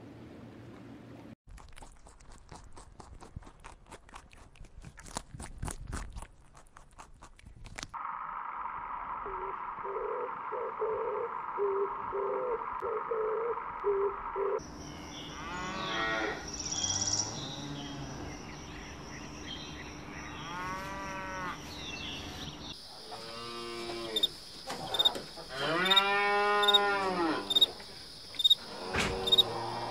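Cow mooing: several long calls that rise and fall in pitch, loudest in the last few seconds. Before them come a run of sharp clicks and a steady high tone with low pulsing.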